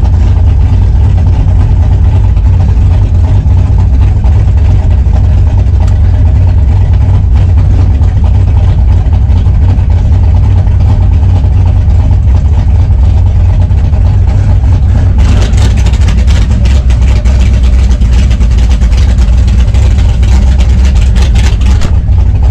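1963 Chevrolet Impala drag car's engine idling steadily, heard from inside the cabin. About two-thirds of the way through, a crackling hiss joins it.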